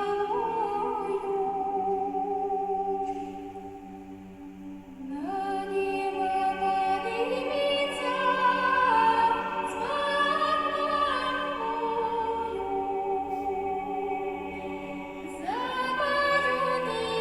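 Choir singing a Cossack spiritual verse a cappella in sustained chords; the sound thins and softens around four seconds in, then swells back up, and a new phrase enters with a sliding rise near the end.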